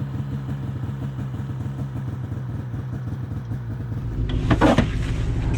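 Vehicle engine running steadily at low revs, with a brief, louder sharp noise about four and a half seconds in.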